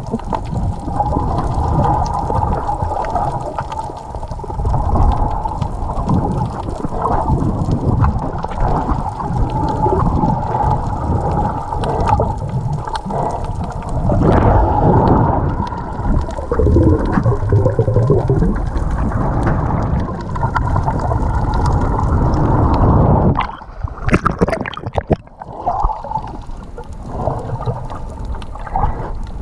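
Seawater sloshing and gurgling close to the microphone, loud and churning. About three quarters of the way through it drops away suddenly, with a few sharp knocks.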